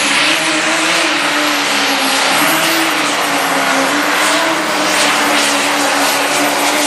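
Light pro stock pulling tractor's turbocharged diesel engine at full throttle under heavy load, pulling the sled down the track, with a steady high turbo whistle over the engine note. The sound drops off right at the end.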